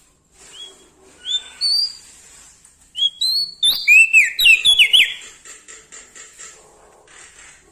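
Prenjak daun songbird singing loud, clear whistled notes: a few separate rising notes in the first two seconds, then a fast run of sharp, slurred notes from about three to five seconds in.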